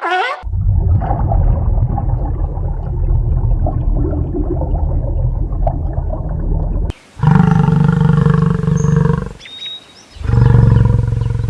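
A large animal growling low and at length, then giving two loud, drawn-out roars, the second near the end.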